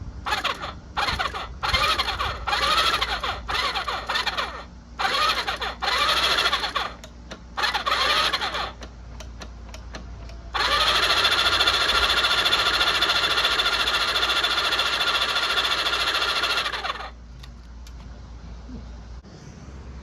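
Electric starter cranking a Honda CB400F's inline-four engine without it firing: a run of short bursts, then one steady crank of about six seconds that stops suddenly.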